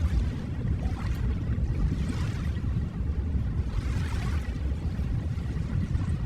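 Ocean waves: a steady low rumble of surf with a hiss of breaking water that swells and fades every couple of seconds.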